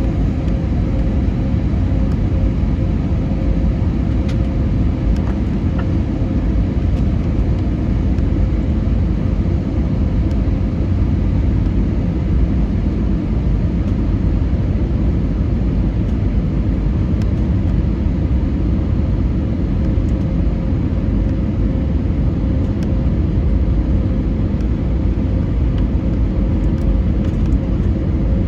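Steady cabin noise inside an Airbus A320neo: a loud low rumble from the CFM LEAP-1A engines and airflow, with one steady hum held throughout.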